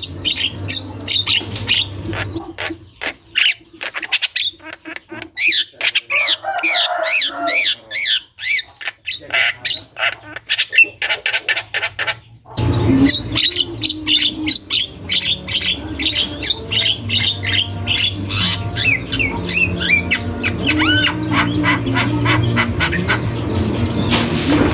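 Javan myna (jalak kebo) singing in full voice, a fast unbroken run of harsh squawks, chatters and rising whistles. It breaks off abruptly about halfway, then carries on just as fast.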